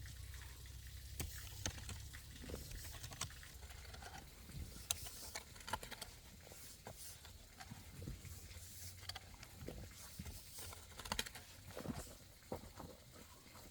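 Irregular light clicks and knocks, scattered through the whole stretch over a faint low rumble.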